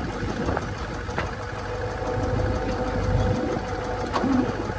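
Tractor engine running steadily, with a couple of sharp ticks over the rumble.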